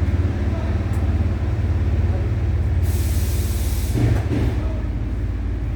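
A steady, evenly pulsing low machine rumble, with a loud burst of spraying hiss lasting about a second about three seconds in and a click just after it.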